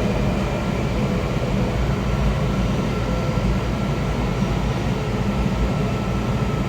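Cabin of a Kawasaki 7000-series Metrorail car running between stations: a steady rumble of the wheels on the track, with a faint steady whine above it.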